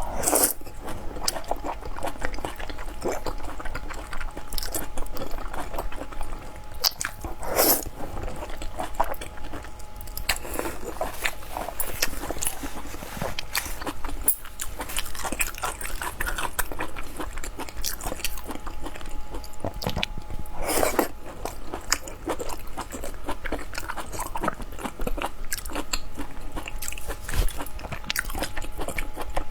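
Close-up chewing and biting of lamb intestine noodles: wet mouth sounds and many small clicks, with louder mouthfuls about half a second, eight seconds and 21 seconds in.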